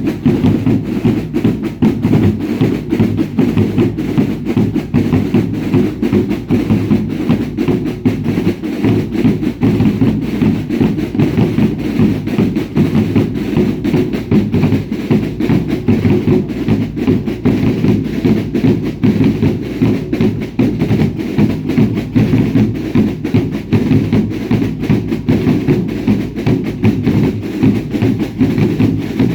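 Drums of a Chilean baile indio dance troupe beating without a break in an even, continuous pattern.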